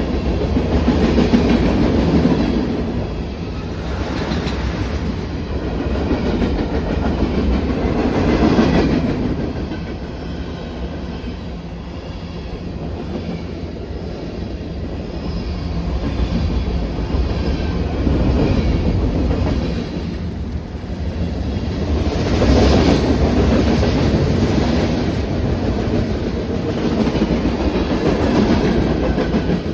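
Railroad train rolling past, its wheels clattering over the rail joints. The noise swells and eases in waves as the cars go by.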